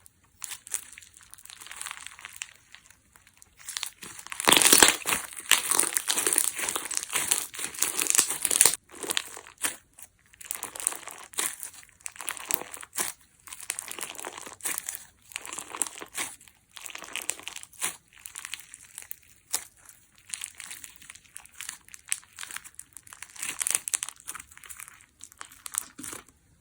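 Crunchy clear slime with a water-bubble texture being worked, crackling and popping in irregular bursts with short pauses between, loudest for a few seconds about five seconds in.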